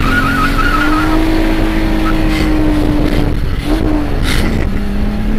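Car engine pulling hard under acceleration, heard from inside the cabin over loud road and wind noise; its note holds high, then drops to a lower steady note about four seconds in.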